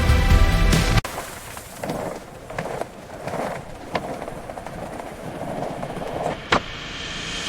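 Music cuts off about a second in, giving way to a skateboard's wheels rolling over pavement with scattered sharp clacks of the board, the loudest one near the end.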